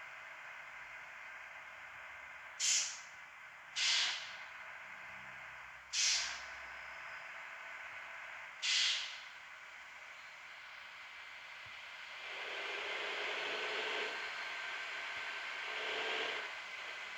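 A bus's compressed-air system hissing in four short, sharp bursts, then two longer, fuller rushes of air near the end, over the faint steady hum of the engine idling as it warms up.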